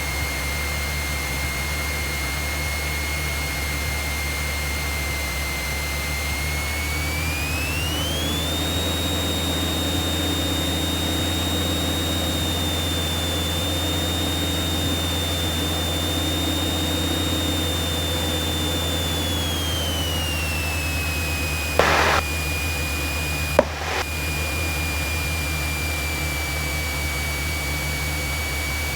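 Light aircraft's piston engine running, heard from inside the cockpit as a steady low hum with a high whine on top. The whine rises in pitch about eight seconds in as power comes up, holds, and drops back around twenty seconds in. Two short clicks come a couple of seconds apart near the end.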